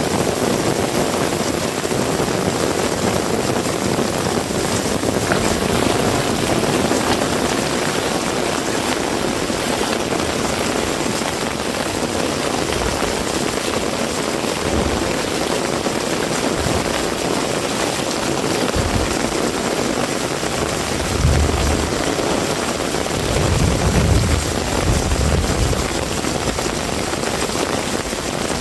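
Heavy rain falling steadily, a dense even hiss, with a few low rumbling swells about two thirds of the way in and again shortly before the end.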